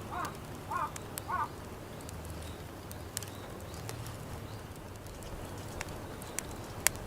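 A bird calls three times in quick succession, then stops. Sparse sharp crackles and pops follow, one louder than the rest near the end, typical of a charcoal cooking fire.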